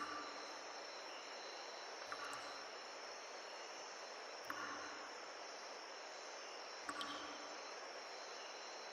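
Insects, cricket-like, trilling steadily at a high pitch over an even hiss of wind. A soft thud comes about every two and a half seconds.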